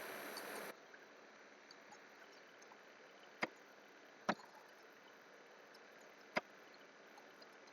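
Three separate sharp clicks over faint background hiss; a louder steady hiss at the start drops away abruptly before the first second is out.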